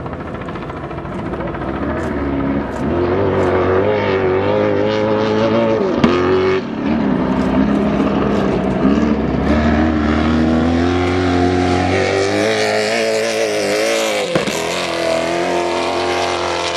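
Speed Energy trick truck engines running hard, the pitch rising and falling over and over as the throttle is worked, with a couple of sharp knocks.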